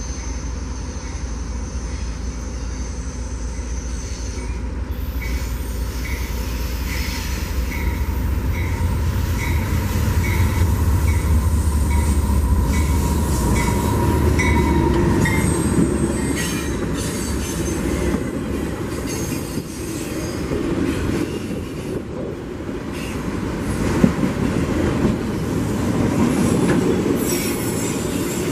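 CSX freight train passing close by: the diesel locomotive's engine rumble swells to its loudest as it goes past, then autorack cars roll by with the wheels clacking over the rails. A bell rings about twice a second while the locomotive approaches and passes.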